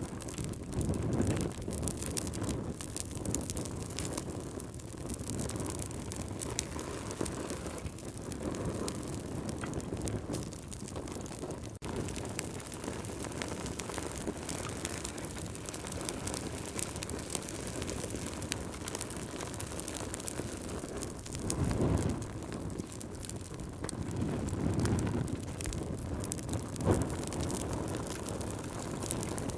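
Campfire burning: a steady hiss of flames full of small sharp crackles and pops, with several low rushing swells, the strongest two close together near the end.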